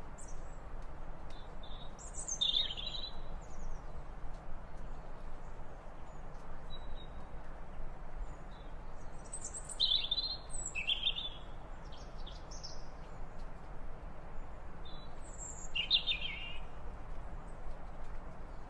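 Birds chirping in short bursts of calls, a few seconds apart, over a steady background hiss; the loudest burst is near the end.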